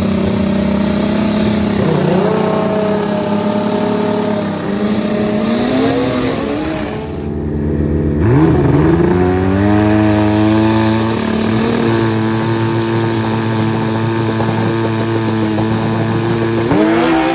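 Drag-racing motorcycle engines revving hard, sweeping up in pitch several times and holding high steady revs in between.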